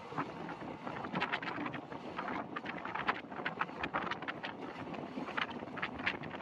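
Passenger coach of a moving express train heard from an open window: wind buffeting the microphone over the steady rush of the running train, with many irregular clicks and rattles.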